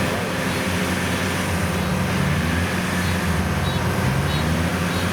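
Heavy farm-machinery diesel engine running steadily with a low drone.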